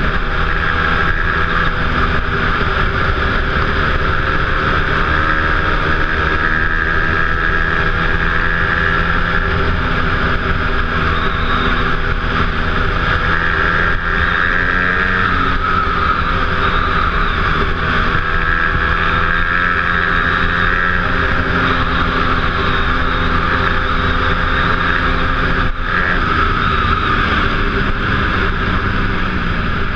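Dirt bike engine running steadily while riding, its pitch drifting gently up and down with the throttle.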